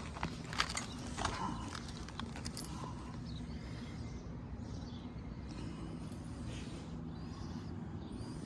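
Packaged air-conditioning unit running with a steady low mechanical hum, with a few sharp clicks in the first second or so.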